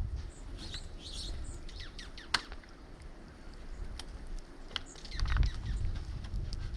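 Small birds chirping: scattered short, high calls and a few sharp ticks over a low rumble of wind on the microphone.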